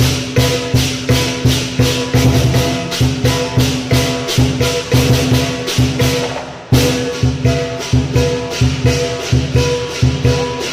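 Lion dance percussion: a big drum with crash cymbals and a gong played in a fast, steady beat of about three to four strikes a second, with the cymbals and gong ringing on. The beat breaks off briefly about two-thirds of the way through and comes back in with a loud hit.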